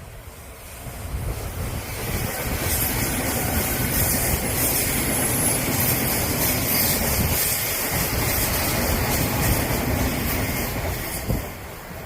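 Odakyu Line electric train passing on the rails: the wheel rumble builds over the first two seconds and stays loud as the cars go by for about nine seconds, then falls away near the end.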